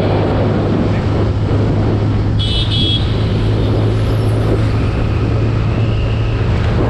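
A TVS Apache RTR 160's single-cylinder engine running at a steady pace under wind and road noise. A horn beeps briefly about two and a half seconds in.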